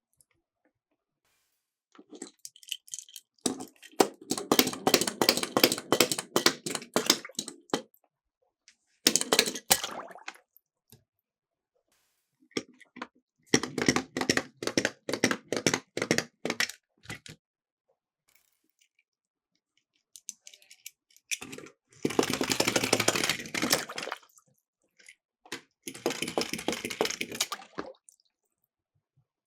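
Miniature die-cast toy cars rattling down a plastic slope in about five separate runs, each a rapid clatter of small clicks lasting a second or several, with quiet gaps between.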